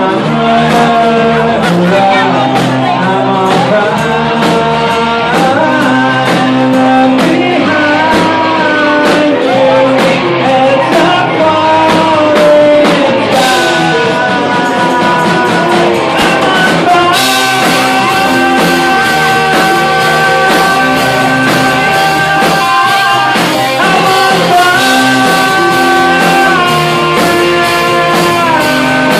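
Rock music played by a band, with guitar, drums and a singing voice.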